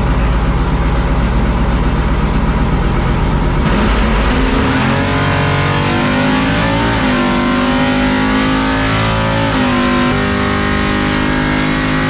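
Chevrolet C10 drag truck's engine at full throttle on a drag-strip pass. It starts as a heavy low rumble, then the pitch climbs and drops sharply twice, about seven and ten seconds in, like gear shifts.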